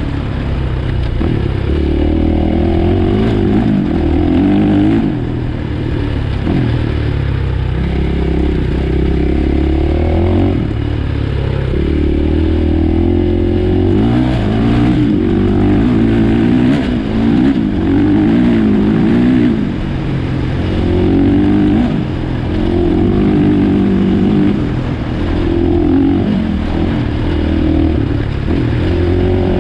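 2017 KTM 500 EXC-F's single-cylinder four-stroke engine under way, its pitch rising and falling again and again as the throttle is opened and closed.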